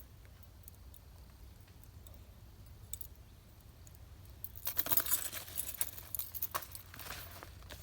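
Small metal objects jangling and clinking as they are handled: a few faint clicks, then a busier run of clinks and rustling for about three seconds in the second half.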